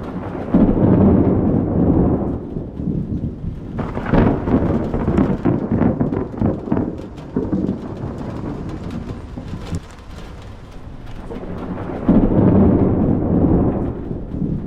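Thunder rolling in a thunderstorm. A heavy, low rumble comes about half a second in, crackling peals follow between about four and seven seconds, and another deep rumble comes about twelve seconds in.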